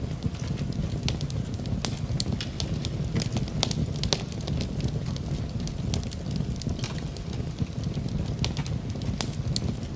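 Wood fire crackling in a fireplace: a steady low rumble of flames with frequent sharp pops and snaps scattered irregularly throughout, over a soft wash of rain.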